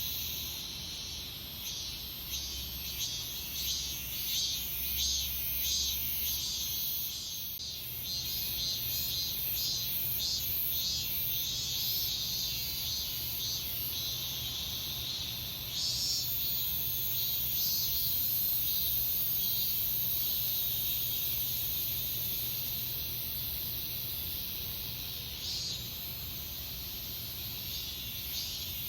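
Chorus of cicadas singing in late summer. For about the first half it is high, pulsing calls at roughly two a second; about halfway through a steady, continuous high-pitched buzz takes over.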